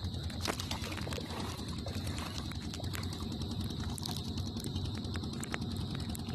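Boat engine running steadily, a low even hum, with scattered light clicks and knocks over it.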